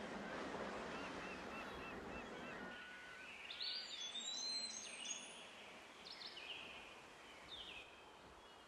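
Outdoor ambience with birds calling: a soft steady hiss with a run of small repeated chirps at first, then from about three seconds in several short, high bird calls, some gliding in pitch.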